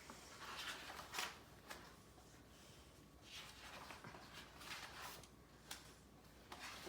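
Faint rustling and handling noises: a few soft, brief swishes and a small click in a quiet small room.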